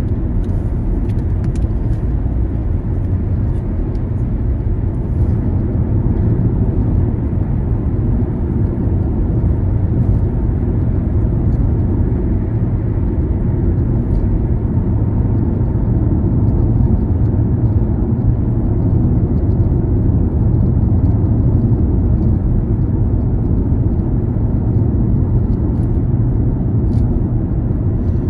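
A car driving along, its engine and tyres making a steady low rumble of road noise.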